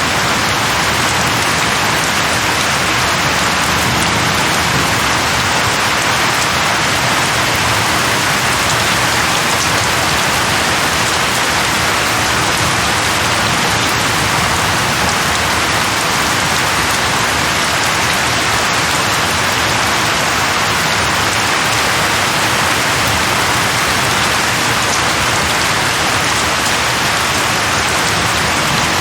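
Steady rain falling on leaves, an even hiss that holds constant.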